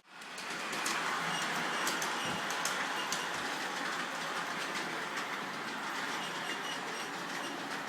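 G-scale model locomotive styled as Percy running along its track: a steady whir of motor and wheels with scattered light clicks, fading up quickly at the start.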